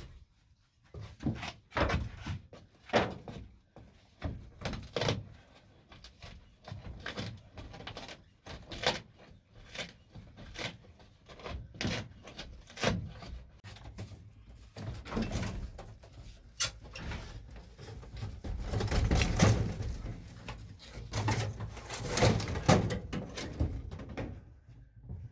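Irregular knocks, thunks and clatter of hands working on a van's interior panels and fittings, with stretches of rustling and scraping from about fifteen seconds in, as old material is pulled out.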